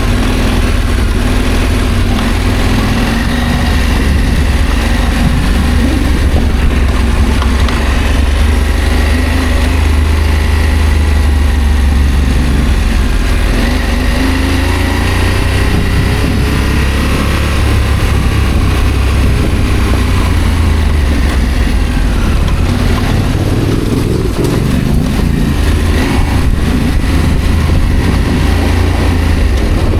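Adventure motorcycle engine running while riding, its pitch rising and falling with the throttle over a steady low rumble.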